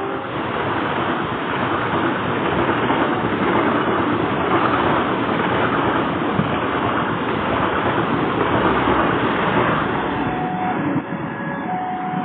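The Ranggajati passenger train's carriages rushing past at speed close by: a loud, steady rumble and rush of wheels on rail and wind, easing a little near the end, when a few steady tones come in.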